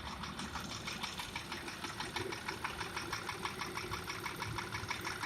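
Porsche Macan engine idling with a fast, regular knock. Inspection with a video borescope found scored cylinder walls, along with heavy oil consumption.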